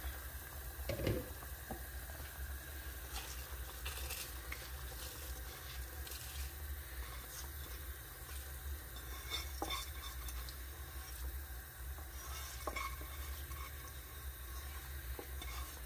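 Spiced masala frying in a cooking pot, sizzling faintly, while a spoon stirs it and clinks against the pot now and then, once more sharply about a second in. A steady low hum runs underneath.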